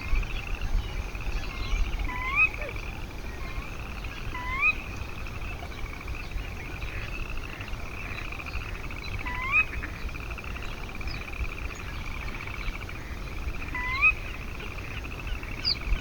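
A chorus of frogs trilling steadily, with a short upward-slurred call repeating every few seconds, about five times, over the top.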